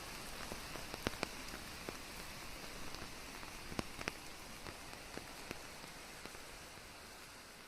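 Steady rain hiss with scattered individual drops ticking sharply on a surface, gradually fading out.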